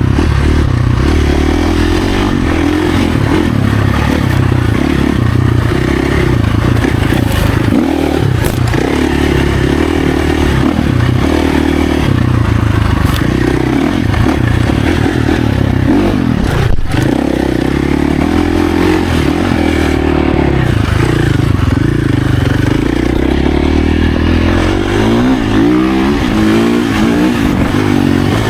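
Husqvarna FC450's 450cc four-stroke single-cylinder engine running hard on an off-road ride, revving up and down continually as the throttle opens and closes. There is a single sharp knock about two-thirds through, and quick rising revs near the end.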